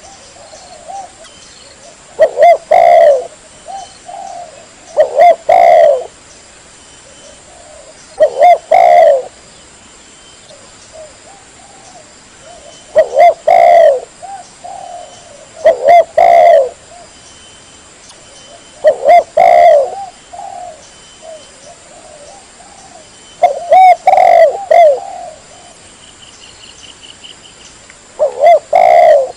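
Spotted dove (tekukur) cooing: loud, low coo phrases repeated about every three seconds, with softer coos in the gaps.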